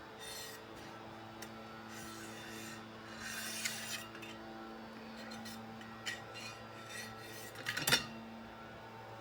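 ClearCore servo motors holding position with a steady electrical hum, while film or reels rub and scrape against them in short spells. Scattered clicks come through, with a sharp double clatter about eight seconds in.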